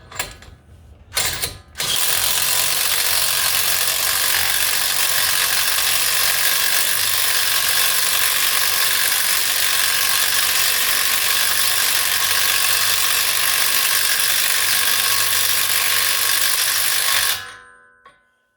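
Power tool running the front axle nut down snug, a steady mechanical rattle for about fifteen seconds that cuts off near the end.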